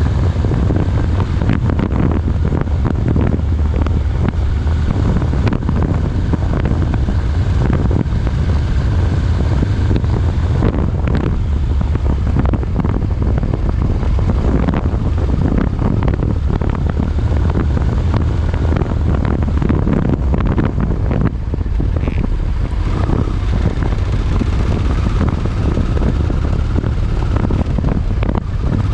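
Strong wind buffeting the microphone over a steady low rumble of a moving vehicle, with a faint wavering whine higher up.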